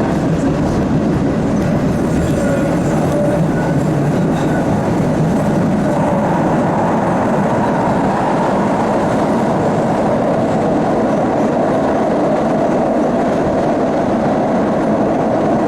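MBTA Siemens 700 Series Blue Line subway car running between stations, heard from inside the car: a steady, loud rolling rumble, with a higher whine joining about six seconds in.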